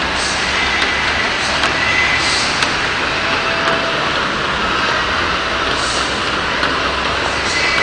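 Heavy rain pouring down, a loud, steady hiss with scattered sharp ticks of drops striking nearby surfaces.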